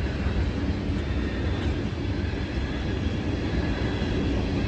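Norfolk Southern freight train's last cars rolling by at the crossing, a steady low rumble of wheels on rail.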